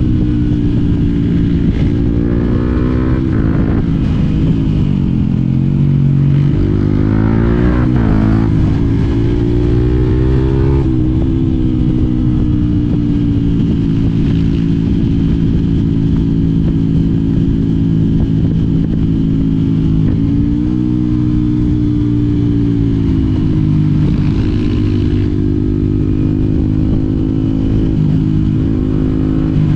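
Yamaha WR 125 X's single-cylinder four-stroke engine running, its pitch climbing and dropping several times as it accelerates and eases off.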